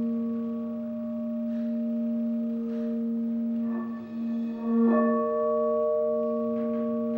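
Pink quartz crystal singing bowl ringing with a steady low tone and several higher overtones. Its loudness wavers, dipping briefly about four seconds in and then swelling louder.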